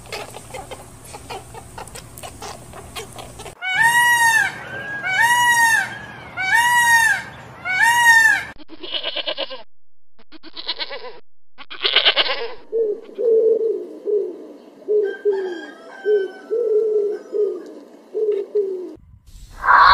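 A run of animal calls: four clear rising-and-falling calls about a second and a half apart, then three short buzzy bleats from an ibex, then a pigeon cooing in a string of short low repeated notes.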